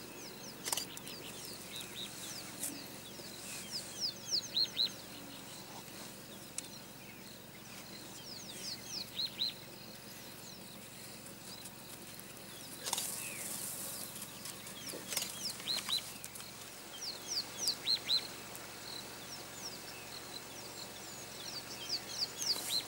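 Wild birds calling: runs of four or five short, sharp, high chirps in quick succession, repeated every few seconds over a faint steady background hiss, with a brief rush of noise about thirteen seconds in.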